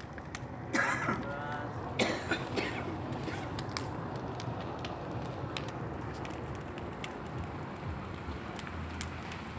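Large outdoor bonfire burning with a steady rush and scattered sharp pops. A person coughs or calls out briefly about one and two seconds in.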